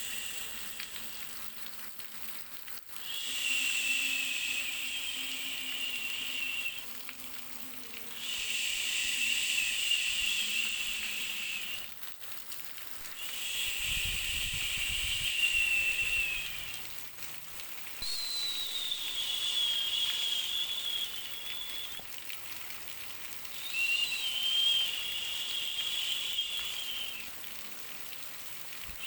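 Baby-soothing white-noise track: a hiss with a wavering whistle-like tone in it, coming in bursts of about three to four seconds with short gaps between them, about six times.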